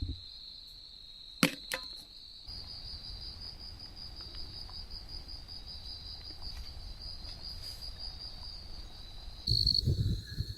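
Night insects trilling steadily in one high-pitched chorus. Two sharp clicks come about one and a half seconds in, and a few low thumps near the end.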